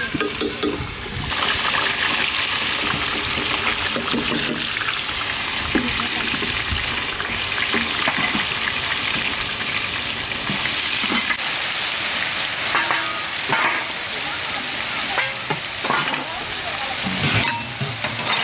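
Sliced onions sizzling in hot oil in a large steel pan, the sizzle growing louder about a second in as garlic paste goes into the oil. A long metal ladle scrapes and knocks against the pan now and then as spices are stirred in.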